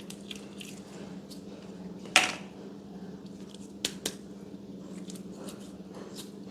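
Slime being handled: small sticky clicks and crackles, with one loud sharp pop about two seconds in and two more clicks near four seconds, over a steady low hum.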